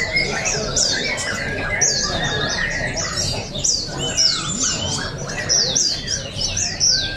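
White-eyes (pleci) singing together, a dense stream of rapid, high chirps that sweep downward and overlap one another.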